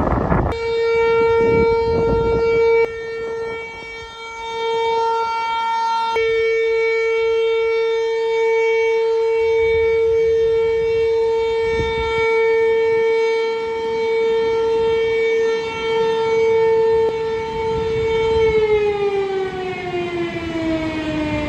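Dam warning siren sounding one long steady wail, then winding down and falling in pitch over the last few seconds. It is the alert that the dam gates are being opened.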